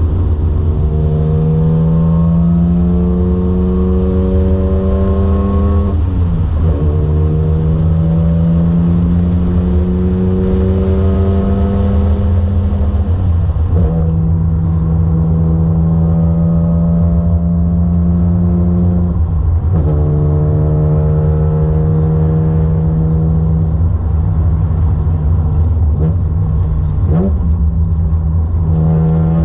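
BMW Z4 M's 3.2-litre straight-six engine pulling through the gears, its note climbing slowly and dropping at each upshift, about every six seconds, over a steady low road rumble. Later the note holds nearly level, with two quick dips in pitch near the end.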